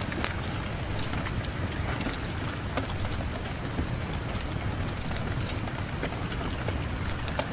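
Wood fire crackling in a fireplace, with scattered sharp pops over a steady low rumble of wind.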